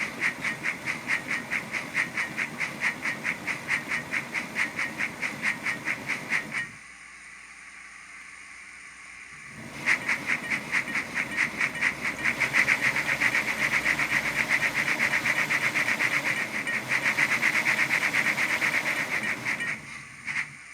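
Steam-locomotive chuffing from a Soundtraxx Econami DCC sound decoder playing its slow wheel-slip effect: rapid, even chuffs at about four to five a second. It breaks off for about three seconds, leaving a faint hiss, then starts again, faster.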